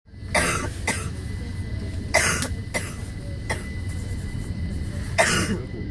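Low, steady rumble inside a train carriage, with a series of short, sharp bursts of noise over it, some quick and some lasting a fraction of a second.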